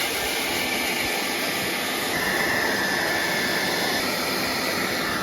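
Hair dryer blowing steadily on high heat, a constant whooshing hum with a faint high whine, fading out just after it stops.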